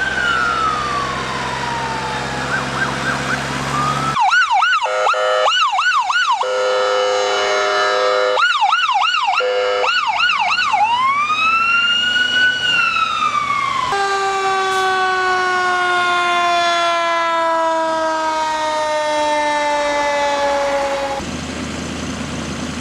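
Emergency vehicle siren: a slow rising and falling wail switches about four seconds in to a fast yelp. It returns to a slow rise, then winds down in a long falling tone that stops abruptly near the end, leaving a low engine hum.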